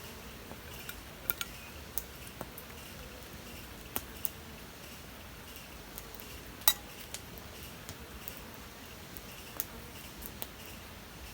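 A few scattered sharp clicks and clinks, the loudest about two-thirds of the way in, over a faint steady insect hum.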